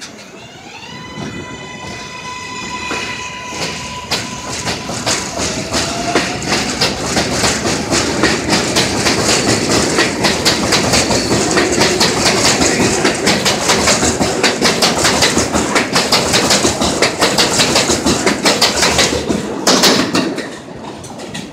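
A train passing close by a station platform. A rising whine near the start levels off into a steady tone. Then the wheels clatter over the rail joints in a fast, loud, rhythmic clickety-clack, which drops away suddenly near the end as the last car goes by.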